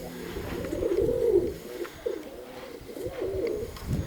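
Domestic pigeons cooing, a run of warbling coos one after another, with wind rumbling on the microphone.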